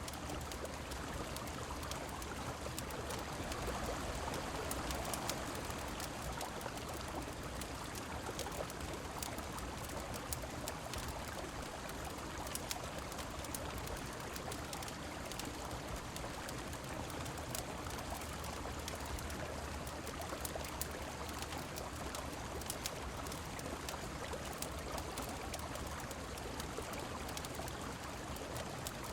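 Steady rush of a flowing river with falling rain, mixed with scattered sharp crackles and pops from a fireplace.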